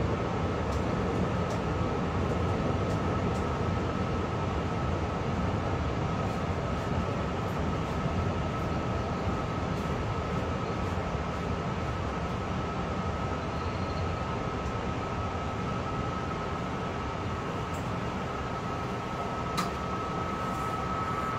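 Long Island Rail Road M3 electric multiple-unit car running along the track, heard from inside the car: a steady rumble of wheels on rail with a steady high whine that grows stronger near the end, and a single sharp click shortly before the end.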